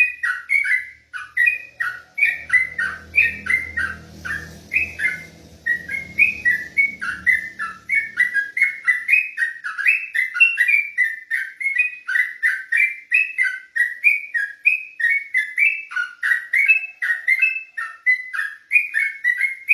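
Yellow-vented bulbul (trucuk) singing a non-stop run of short, quick whistled notes without pauses, the rapid continuous 'ropel' song prized by songbird keepers. A low rumble underneath from about two seconds in to about nine seconds.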